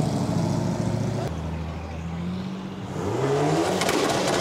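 Car engine running at a steady pitch, then an engine revving up with its pitch rising through the second half.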